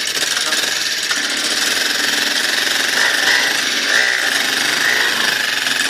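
Mini dirt bike's small engine running with a steady buzz that swells a little a few times.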